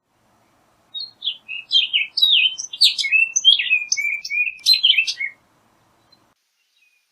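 Orchard oriole singing one rapid, jumbled song of varied whistled and slurred notes, starting about a second in and lasting about four and a half seconds.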